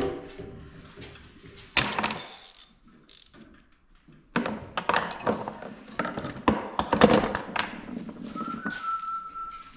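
Hand tools and metal parts clanking, knocking and rattling during engine-removal work under the hood, with a sharp clatter about two seconds in and a dense run of knocks and clicks in the middle. A short steady high tone, like a whistle, sounds near the end.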